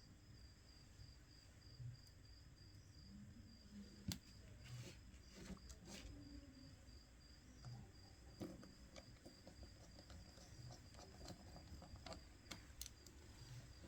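Near silence, broken by a few faint clicks and small taps of hands and tools handling the phone's parts. A faint high tone pulses evenly throughout.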